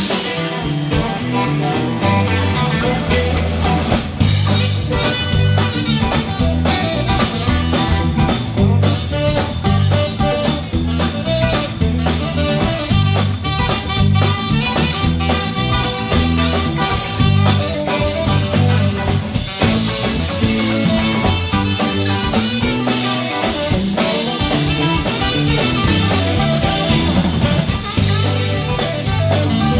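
Instrumental break of a country-rock song: guitar playing over a steady band beat with drums, no vocals.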